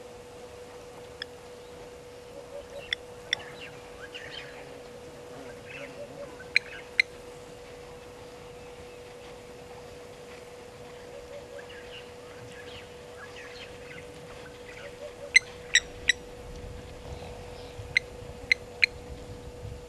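Birds calling in bush ambience: soft scattered chirps and sharp short calls that come in pairs and threes, the loudest three in quick succession about three-quarters through, over a steady hum.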